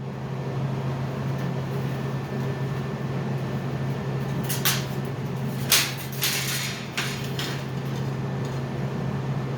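A steady low machine hum, with a few short metallic clanks of metal being handled about halfway through.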